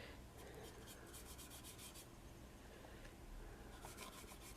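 Faint, quick scratchy rubbing strokes as paint is dabbed and worked onto a paper-covered craft surface, in two short spells: about a second in, and again near the end.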